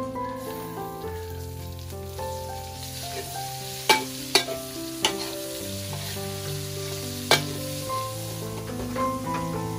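Meat frying in a hot wok over a wood fire: a steady sizzle, with the metal ladle clinking against the wok several times between about four and seven seconds in as the food is stirred. Soft background music with held notes plays underneath.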